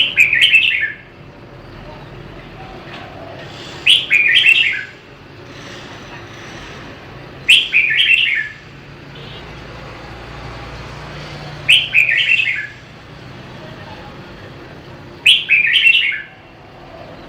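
Red-whiskered bulbul singing the same short warbled phrase five times, roughly every four seconds. Each phrase lasts about a second and starts with a sharp note.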